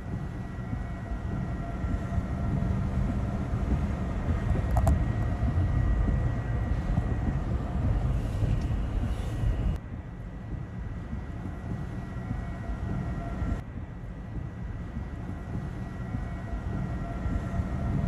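Deep, steady rumbling roar of a tornado, mixed with wind on the microphone, with faint steady whining tones above it. The sound drops suddenly about ten seconds in and shifts again a few seconds later.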